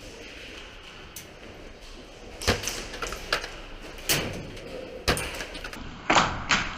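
A series of sharp clacks, about one a second, over a low background hiss.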